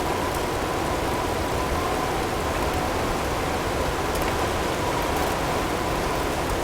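Blizzard ambience: steady wind-driven storm noise with a faint, steady whistling tone held through it and a few faint ticks.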